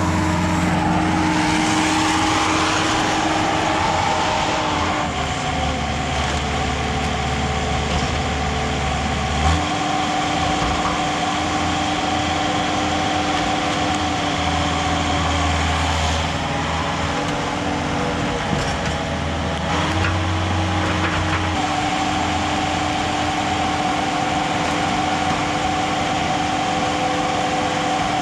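Komatsu CK30 skid steer engine running steadily while working a homemade log splitter attachment, its low hum shifting in pitch several times as the machine works.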